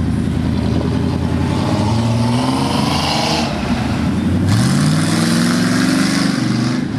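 A car engine accelerating as the car drives off. Its pitch climbs, drops sharply about four and a half seconds in, then climbs again.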